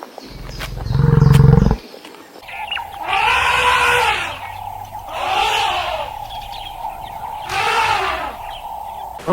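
Animal calls: a loud, low call lasting about a second and a half, then three separate drawn-out calls that rise and fall in pitch, spaced a couple of seconds apart.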